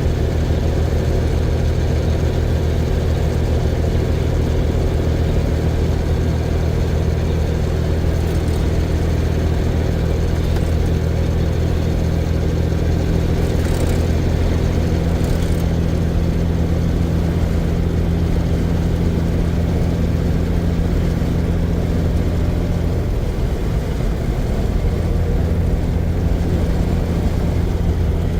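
Semi truck's diesel engine running steadily under way, a deep even drone. About three-quarters of the way through the note briefly drops away and then picks up again.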